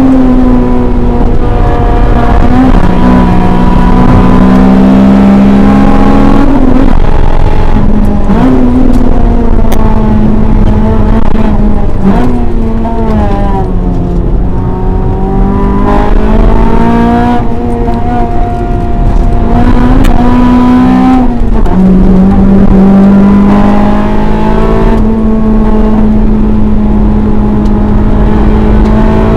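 Loud cabin sound of a Honda EK9 Civic Type R's 1.6-litre B16B VTEC four-cylinder driven hard around a race track. The engine note climbs and falls with throttle, braking and gear changes, with several sudden drops in pitch.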